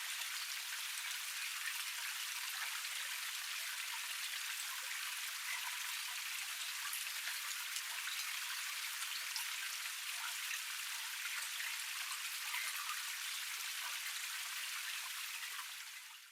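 Water of a small forest cascade splashing and trickling steadily, a fine pattering hiss with no low rumble. It fades out near the end.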